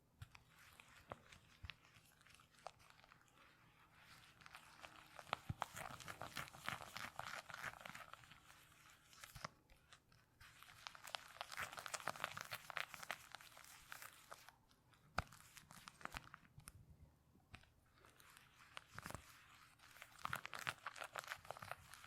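Quiet, close-miked crinkling and crackling in several bursts with short pauses between them.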